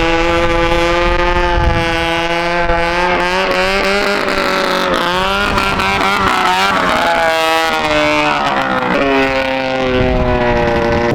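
400cc snowmobile engine in a lightweight go-kart running loud. Its pitch holds steady, then wavers and slides up and down for several seconds in the middle, and settles back to a steady note near the end.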